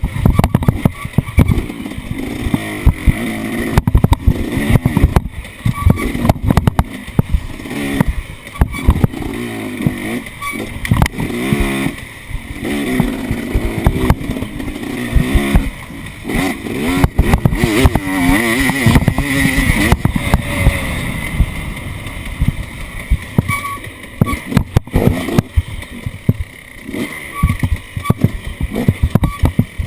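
An off-road vehicle's engine running with constantly changing throttle, its pitch rising and falling, mixed with frequent sharp knocks and jolts.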